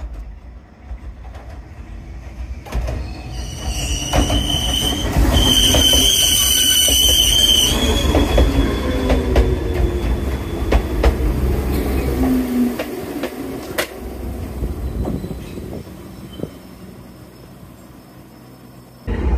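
Enoden electric train passing close by: the rumble of its wheels builds as it approaches, and a loud, high-pitched metallic squeal runs from about 3.5 to 8 seconds in. Then comes a clatter with sharp clicks as the cars roll over the rail joints, fading toward the end.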